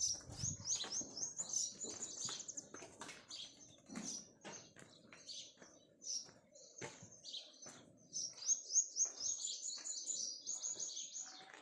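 Small birds chirping: quick runs of high, repeated notes, once near the start and again for about three seconds near the end, with scattered single chirps between.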